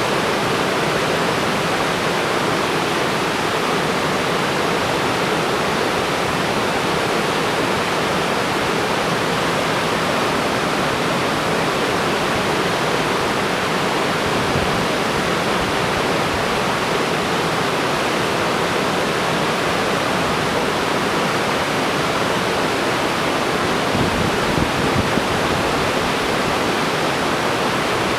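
Sgwd Ddwli Uchaf waterfall pouring in a steady, unbroken rush of falling water. A brief low rumble comes in about three quarters of the way through.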